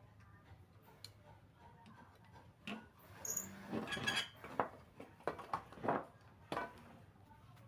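A run of clinks and knocks of hard objects, some with a brief ring, bunched between about three and six and a half seconds in, over a low steady hum.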